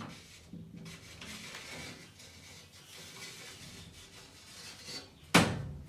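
Faint handling and scraping sounds from a window frame held up against a wall and traced around, then one sharp knock near the end.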